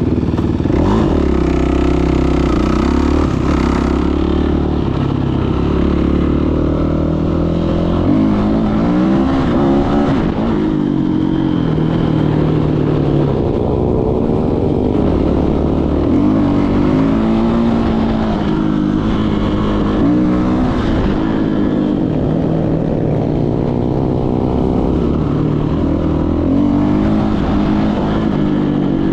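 Dirt bike engine revving up and dropping back repeatedly while riding, its pitch rising and falling through the gears.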